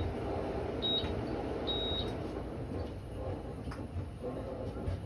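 Electronic beeps from an air conditioner's control panel: a short beep about a second in and a longer one about two seconds in. A low hum drops away right at the start.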